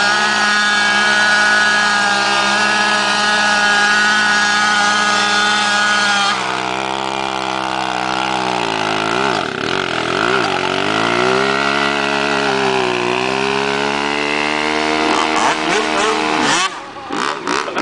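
Dirt bike engine held at high revs during a burnout, with a steady high whine for about six seconds. The revs then dip and rise several times, and the sound drops off sharply about a second before the end.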